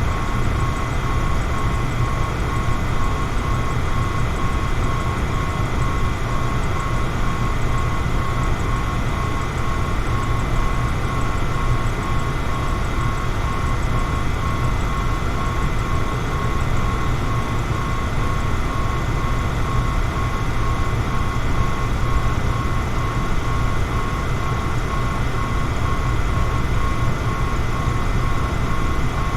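Electric fan running steadily: a constant whooshing rumble with a faint hum, used as white noise.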